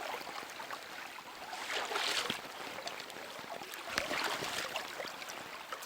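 Flowing river water rushing steadily, swelling a couple of times, with a single knock about four seconds in.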